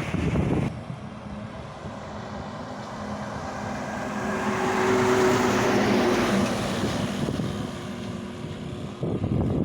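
Hino Ranger truck with trailer driving past, its diesel engine growing louder to a peak midway and then fading away. Wind buffets the microphone at the start and again near the end.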